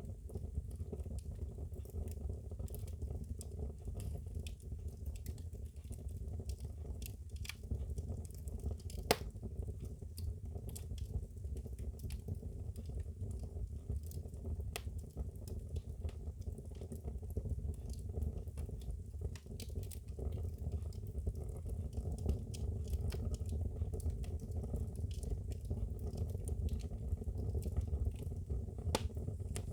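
Wood fire burning in a fireplace, crackling with irregular pops over a steady low rumble; one sharper pop about nine seconds in.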